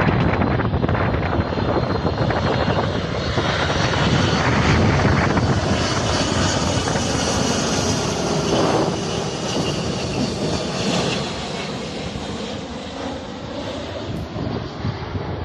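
An airliner passing close on final approach to land: a loud rush of engine noise with a whine on top that slides down in pitch as the aircraft goes by, fading after about eleven seconds.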